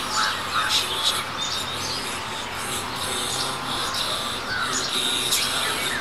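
Several birds chirping and calling outdoors, short sharp calls repeating throughout over a steady background hiss.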